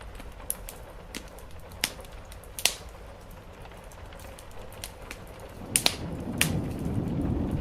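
Wood fire crackling, with a handful of sharp pops, over a steady patter of rain. In the last two seconds a low rumble of thunder swells in.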